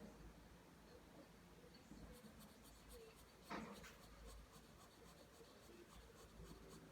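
Faint pencil scratching on paper as lines are drawn, with one louder, sharper sound about three and a half seconds in.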